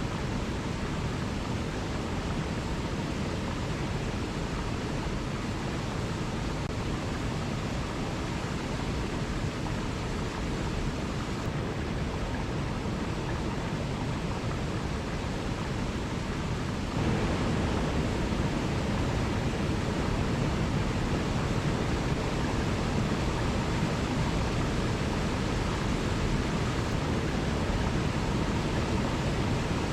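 Waterfall: a steady rush of falling water that becomes slightly louder a little past halfway through.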